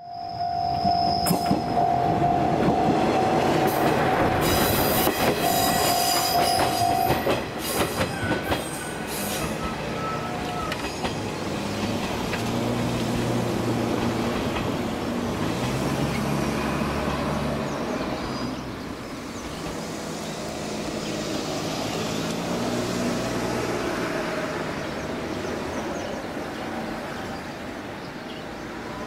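JR Shikoku 1500-series diesel railcar running on curved track: its wheels squeal and a steady high tone sounds for the first seven seconds or so. Then the diesel engine's drone fades as the railcar moves away.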